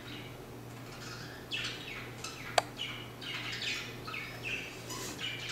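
Bird chirping: a quick run of short, high, falling chirps with a sharp click about two and a half seconds in, over a faint steady low hum.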